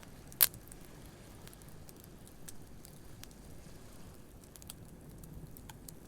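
Campfire crackling with scattered small pops and one loud, sharp pop about half a second in, over a low, steady wash of waves.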